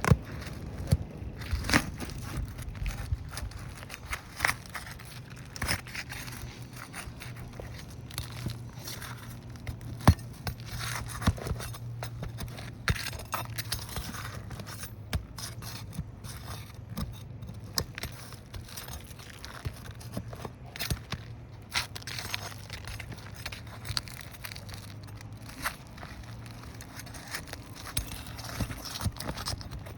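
Irregular clicks, taps and scrapes of objects being handled, over a steady low hum.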